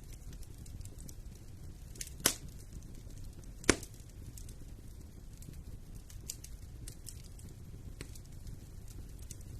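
Wood fire burning in a fireplace, with a low steady rumble and frequent small crackles. Two loud sharp pops stand out, a little over two seconds in and again more than a second later.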